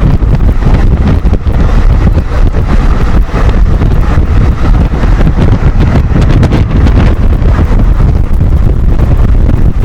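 Heavy wind buffeting on the microphone over the rumble of a passenger train running at speed. The noise is loud and steady, with no horn or single knocks standing out.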